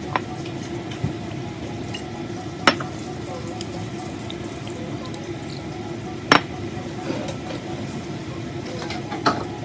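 Kitchen food-prep sounds: three sharp clinks of utensils or containers, spaced a few seconds apart, over a steady mechanical hum like a kitchen appliance or fan.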